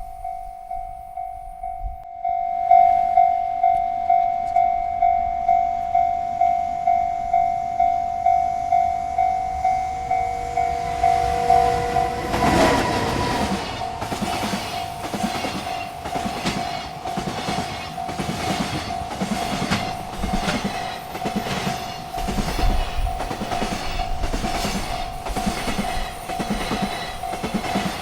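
Railroad crossing bell ringing steadily at about two strokes a second. About twelve seconds in, a freight train arrives and passes, its wheels clacking rhythmically over the rail joints while the bell keeps ringing beneath.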